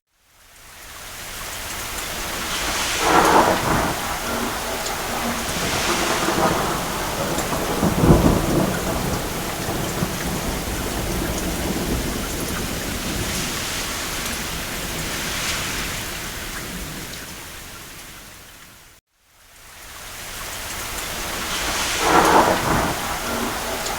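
Steady rain on a roof with thunder rumbling, swelling three times: about 3 s in, more deeply about 8 s in, and near the end. The sound fades out to a brief silence at the start and again about 19 s in, then swells back.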